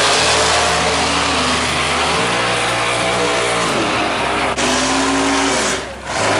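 Drag-racing car engines running loud at high revs, their pitch rising and falling, with an abrupt change in the sound about four and a half seconds in.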